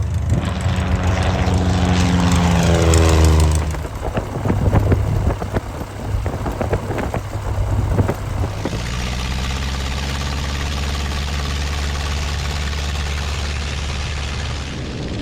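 Light aircraft piston engine and propeller: the pitch falls steadily over the first few seconds, then the sound turns rough with many short knocks, then settles into a steady drone for the second half.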